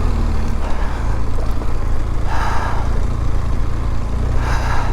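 BMW R1200GS boxer-twin engine running at steady low revs while the bike is ridden along a dirt road, heard from a microphone inside the helmet. Two brief rushes of noise come over it, one about halfway through and one near the end.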